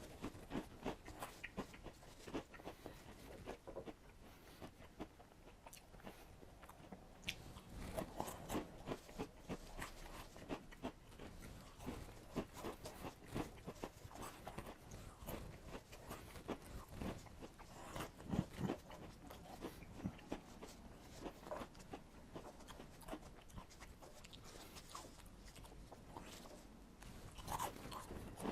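Crunchy Cheetos being chewed: many small, irregular, faint crunches as the crisp corn puffs are bitten and chewed.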